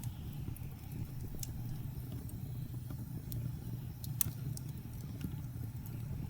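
Wood fire crackling in a fireplace, with scattered sharp pops, the loudest about four seconds in, over a steady low rumble of blizzard wind.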